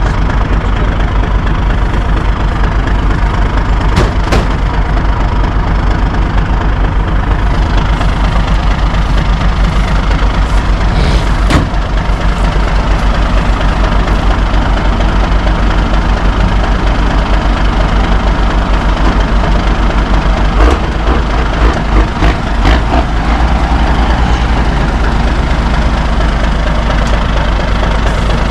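Heavy truck's diesel engine idling steadily close by, with a few sharp clanks over it. Its note wavers for a couple of seconds about three quarters of the way through.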